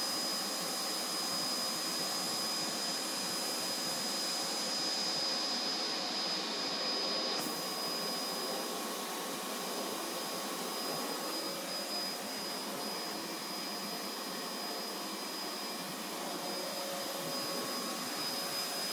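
Vacuum cleaner running steadily, its motor giving an even rushing noise with a thin high whine.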